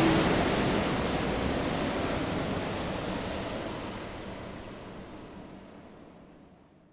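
Airliner cabin noise: a steady rushing hiss over a low rumble, fading out evenly over several seconds until it is gone.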